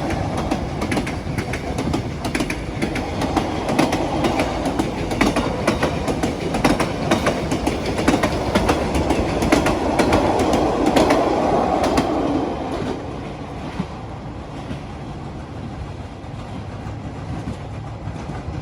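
Train carriages rolling past, wheels clacking over the rail joints over a steady rumble. The sound gets quieter about 13 seconds in, with the clacks fading out.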